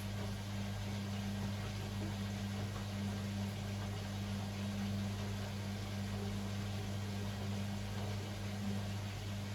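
Beko WML 71433 NP washing machine running with a steady, even hum and a light whooshing noise, unchanging throughout.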